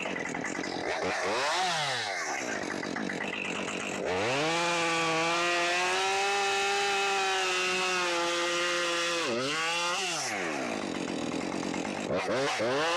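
Two-stroke chainsaw cutting through a tree limb. After a brief throttle blip, the engine revs to full throttle about four seconds in and holds a high, slightly sagging pitch under load for about five seconds. It drops back toward idle about ten seconds in, then gives a few quick throttle blips near the end.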